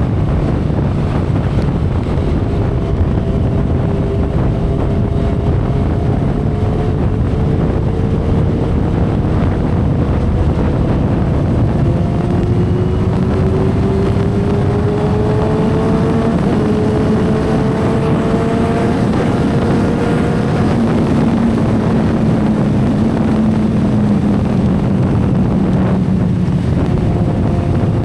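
2012 Kawasaki Ninja ZX-10R inline-four engine running at cruising speed, heard under heavy wind rush on the microphone. The engine note climbs slowly through the middle, then drops and settles near the end.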